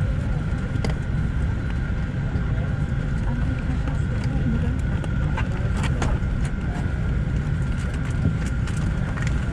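Steady low rumble inside the cabin of a Boeing 747-8 on the ground after landing, with a steady high tone and scattered faint clicks and knocks.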